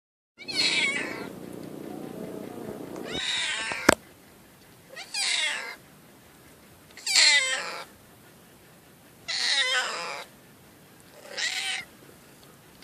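A domestic cat meowing over and over in long, pitiful cries, about six of them a couple of seconds apart. A single sharp click sounds a little before four seconds in.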